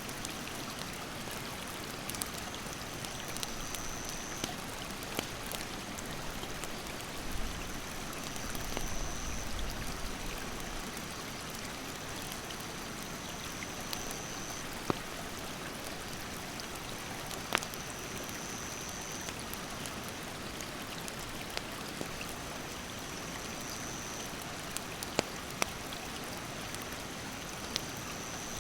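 Steady rush of a mountain stream, with scattered sharp pops and crackles from a wood campfire. An insect's high, even buzz starts and stops several times, and a brief low rumble comes about eight seconds in.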